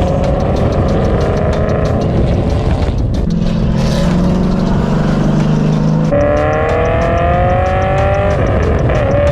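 Car engine pulling under acceleration, its pitch climbing, then running steadier and lower for a few seconds. It climbs again sharply and drops suddenly near the end, as at a gear change.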